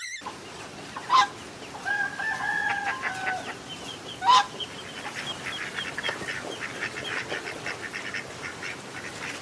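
Chickens calling: two sharp loud squawks, about a second in and again about four seconds in, a held crowing call between them, then a long run of rapid clucking.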